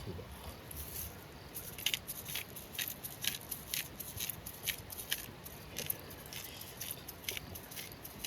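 Wood fire crackling, with a run of sharp irregular pops a few times a second.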